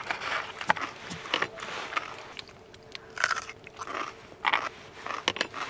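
Close-up eating sounds: irregular crisp crunches and chewing from someone biting into crunchy food.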